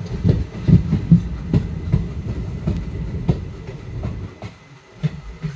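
Express passenger train's wheels clattering over rail joints with a low rumble, in irregular knocks; the clatter drops away about four seconds in, leaving a couple of single knocks near the end.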